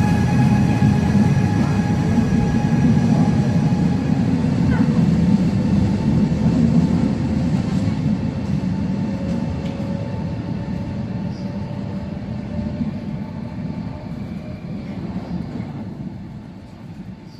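Trenitalia Jazz electric multiple unit pulling away: a low rumble from the rails with a steady whine above it, fading out over the second half as the train runs off down the tunnel.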